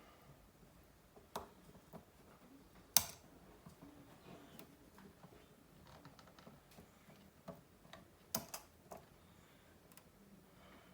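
Scattered small clicks and taps of hand tools and tiny parts handled during smartphone disassembly, the sharpest click about three seconds in and a couple more a little after eight seconds.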